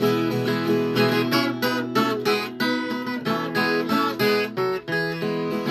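Viola caipira, the Brazilian ten-string folk guitar, playing a fast instrumental passage of picked and strummed notes.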